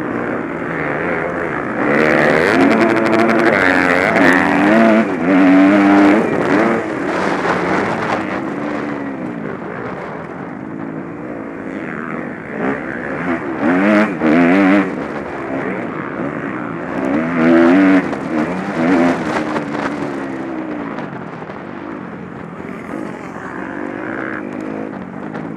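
Motocross bike engines revving hard and dropping back, their pitch rising and falling over and over as bikes pass, with several louder passes.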